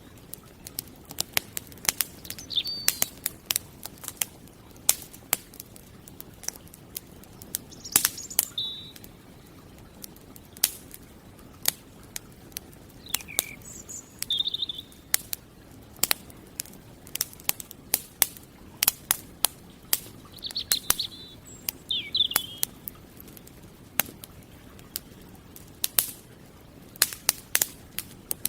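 Campfire crackling with irregular sharp pops, while birds chirp in a few short phrases over it.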